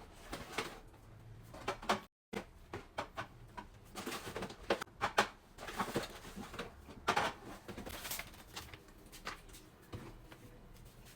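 Irregular knocks, clicks and rustles of groceries being handled and stacked into a fridge, with a brief cut-out about two seconds in.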